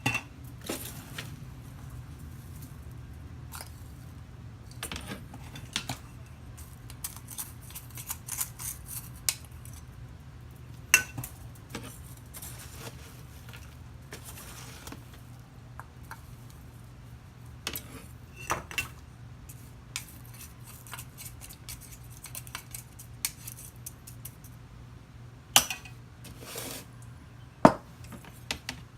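Scattered light clicks, taps and clinks of small hard objects being handled, some in quick clusters, over a steady low hum.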